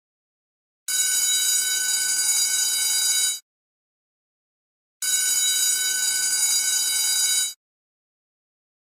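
School bell ringing in two bursts of about two and a half seconds each, starting about a second in and again about five seconds in, with silent gaps between.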